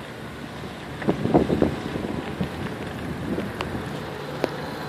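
Wind rushing over the microphone with a steady low rumble while riding a bicycle, with a faint distant voice about a second in and a few light clicks.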